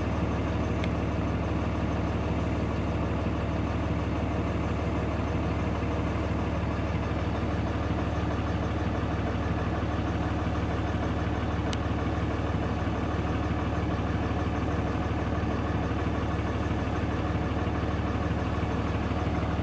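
A vehicle engine idling steadily, a constant low hum that does not change.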